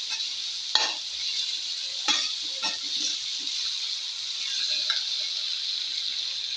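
Diced potatoes, onions and spices sizzling steadily in hot oil in a metal kadai, with a few scrapes of a metal spatula stirring them against the pan in the first three seconds.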